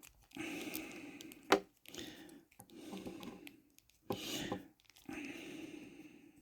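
Hands working small plastic parts: a sword accessory being pushed into an action figure's hand, with patches of scraping and rubbing and sharp plastic clicks, the loudest about a second and a half in and another just after four seconds.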